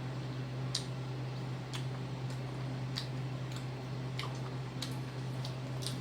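Close-miked chewing: small wet mouth clicks and lip smacks, about one every half second or so, over a steady low hum.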